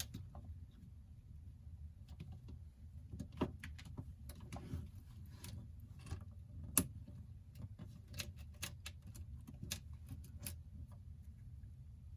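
Small tools and phone parts clicking and tapping irregularly during hands-on smartphone disassembly, with the sharpest click about seven seconds in, over a steady low hum.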